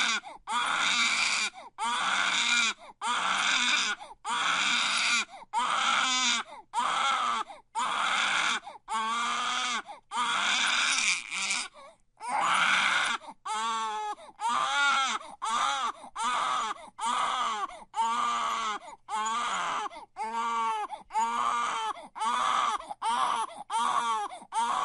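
Baby crying hard in a crying fit: a run of wails, each about a second long, with short catches of breath between. About halfway through the cries turn shorter and quicker, with a wavering, shaky pitch.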